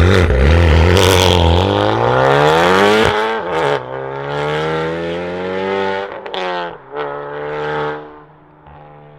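Honda Civic Type R's turbocharged 2.0-litre four-cylinder, breathing through a catless downpipe and a Remus valved cat-back exhaust with the valves fully open, screaming under hard acceleration. The pitch climbs for about three seconds, drops sharply at a shift, climbs again, then eases off and fades near the end.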